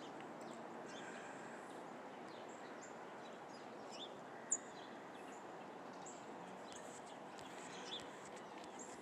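Several small wild birds calling in short, scattered chirps over a steady faint outdoor hiss, with one sharper chirp about four and a half seconds in.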